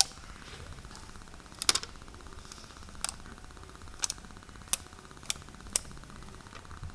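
A series of sharp single clicks, about seven, spaced irregularly a half-second to a second and a half apart, over a faint steady buzz.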